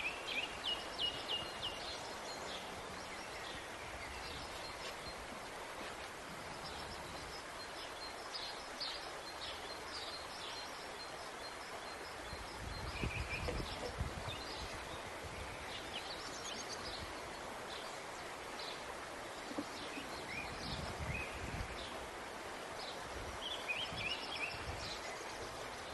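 Small birds chirping in short rapid runs over a steady hiss of outdoor background noise, with a few soft low thuds around the middle and again later on.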